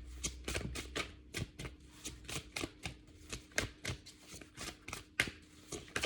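A tarot deck being shuffled by hand: a quick, uneven run of card flicks and slaps, about four a second.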